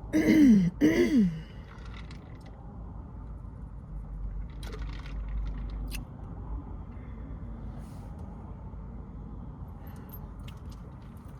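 A woman's two short hummed "mmm" sounds of delight, each rising then falling in pitch, as she tastes a sweet tea. Then a quiet car cabin with a faint low rumble and a few small clicks and rustles.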